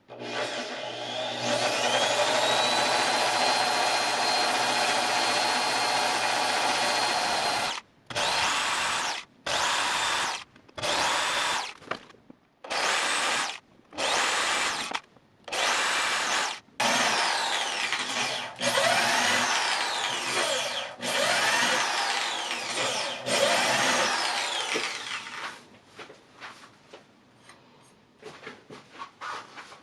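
Electric power tool motor started with a rising whine and run steadily, then triggered in a string of short on-off bursts. After that it runs in longer spells whose pitch sags and recovers several times, as if under load in wood, before winding down.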